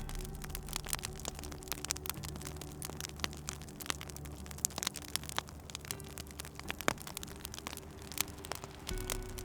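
Wood fire crackling, with many small sharp pops and snaps at an uneven pace over a low, steady hum.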